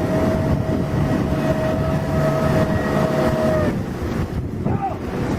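Off-road 4x4 truck engine running during a river crossing, a dense low rumble, with a steady high-pitched tone over it that holds for about three and a half seconds and then cuts off.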